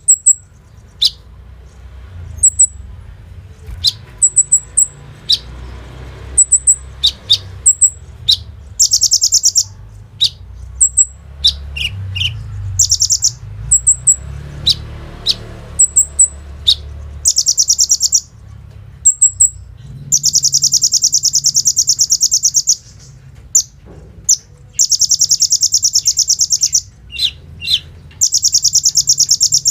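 Kolibri ninja sunbird singing: sharp, very high chips in quick succession, broken by rapid buzzy rattling trills lasting one to three seconds that grow longer and more frequent in the second half.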